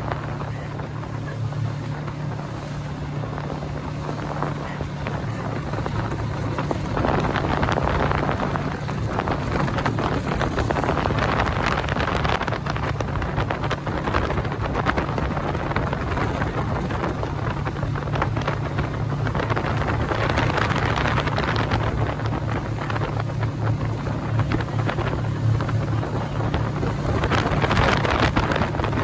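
Motorboat engine running steadily at speed, with wind buffeting the microphone and the rush of air and water over it; the rushing swells louder at times.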